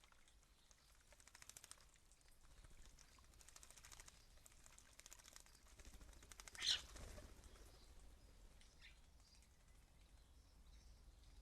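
Faint sounds of European starlings at a garden bird bath: soft, rapid clicking and fluttering, with one short, louder sound about two-thirds of the way through.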